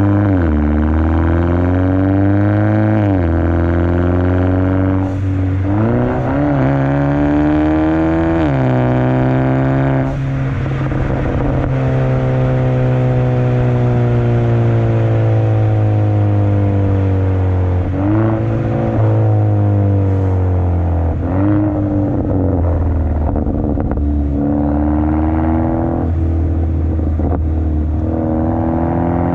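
2017 Hyundai Elantra Sport's 1.6-litre turbocharged four-cylinder engine running through a straight-through exhaust, with the second catalytic converter, resonator and muffler deleted and quad tips fitted. The revs climb and drop sharply several times, hold nearly steady for several seconds in the middle, then rise and fall again near the end.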